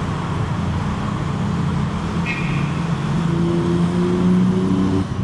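BMW M3's twin-turbo inline-six engine and exhaust, a J pipe in place of the resonator, droning under light throttle in traffic. The note grows louder over a couple of seconds, then falls off shortly before the end as the throttle eases.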